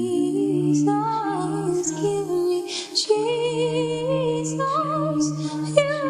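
A cappella hymn singing: several voices in harmony with no instruments, a low voice holding long notes under slowly moving upper lines, with a short breath-break about three seconds in.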